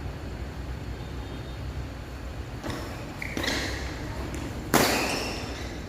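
Sounds of badminton play in a hall over a steady low hum: a few scuffs on the court from about halfway, then one sudden loud hit with a short ringing tail about three-quarters of the way through.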